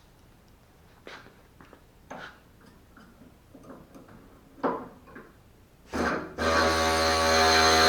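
Light knocks and handling of tools for about six seconds, then a pneumatic cutoff tool starts up with a burst and runs at a steady high speed near the end.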